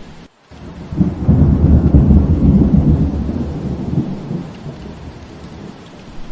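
Steady rain with a roll of thunder. The sound drops out almost completely for a moment just after the start, then a low rumble comes in about a second later, is strongest for the next few seconds and fades away toward the end under the rain.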